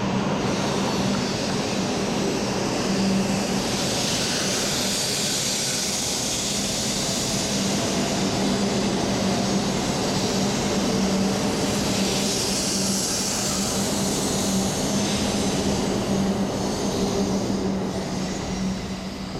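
E7 series Shinkansen pulling out of the station, its cars passing close by with a steady rushing noise over a steady low hum. The sound starts to fade near the end as the last car goes by.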